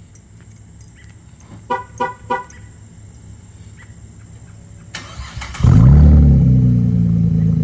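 Three quick car horn toots, then a car engine comes in loudly about five and a half seconds in, rising briefly and settling into a steady run.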